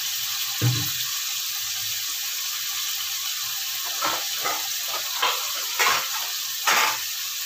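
Sliced bitter melon sizzling in a wok with a little water just added: a steady hiss. There is a low thump about a second in, and several short, sharper sounds between about four and seven seconds.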